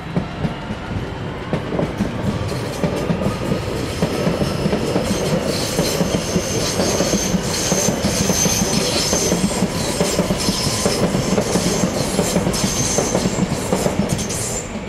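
Blue-and-white Transilien suburban electric train running past, its wheels clattering over rail joints with a steady rumble. A high, thin wheel squeal comes and goes from about five seconds in until near the end.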